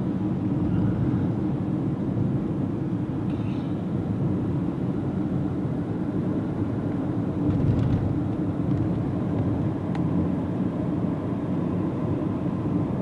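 Steady low rumble of a car on the move, with road and engine noise heard from inside the cabin through a camcorder's built-in microphone.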